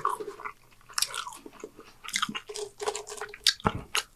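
Close-miked chewing of a mouthful of cheeseburger, with irregular short clicks and smacks from the mouth.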